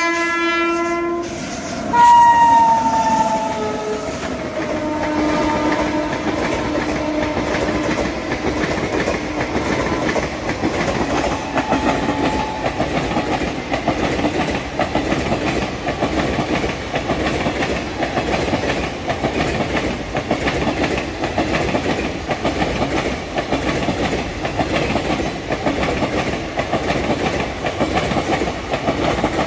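Electric locomotive's multi-tone horn: a long blast cuts off about a second in, and a second loud blast follows, dropping in pitch as the locomotive passes. Then the long rake of coaches rolls by, its wheels clattering over the rail joints in a steady rapid clickety-clack.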